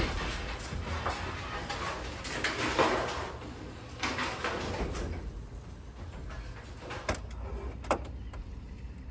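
A VW bus being pushed slowly by hand, its tyres rolling on the ground with a low rumble and scraping. A few sharp knocks come about seven and eight seconds in.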